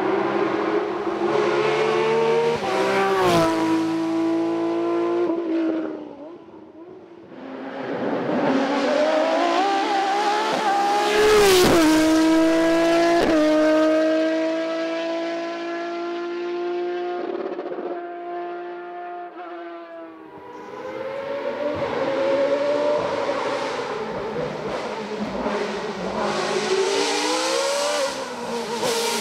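Hillclimb race cars going by one after another at full throttle, engines revving up through the gears with quick upshifts. Three cars pass in turn, each fading before the next one comes up.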